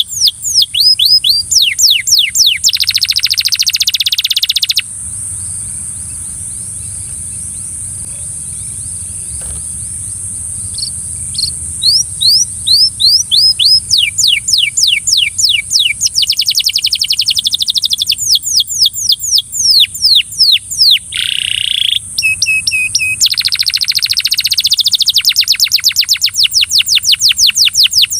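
Belgian canary singing: fast trills of quickly repeated sweeping notes and a buzzing roll. The song breaks off about five seconds in and resumes some seven seconds later, with a steady high-pitched whine underneath throughout.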